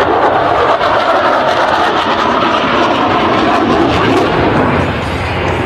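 Dassault Rafale's twin Snecma M88 turbofan engines roaring steadily as the jet flies its display.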